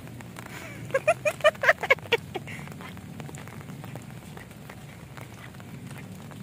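Steady patter of light rain with scattered drips. About a second in, a quick run of about eight short, high-pitched calls comes in just over a second.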